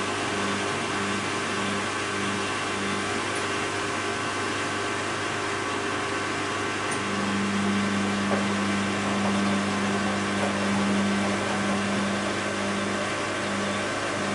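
Bosch WAB28220 front-loading washing machine running a quick-wash cycle: steady machine noise with a motor hum that pulses about twice a second, holds steady for several seconds about halfway in, then pulses again near the end.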